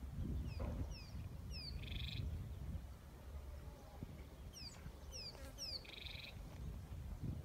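A bird calling twice: each time a quick run of short, falling whistled notes ends in a brief buzzy note. A low rumble runs underneath.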